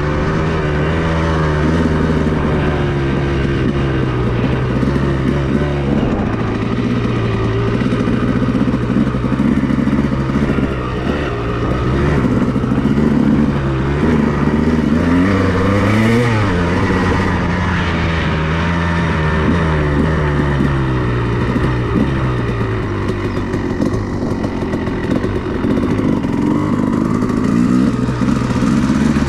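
A 2002 Honda CR250R's two-stroke single-cylinder engine being ridden, its pitch rising and falling as the throttle opens and closes. It climbs to its highest pitch about halfway through, then drops back.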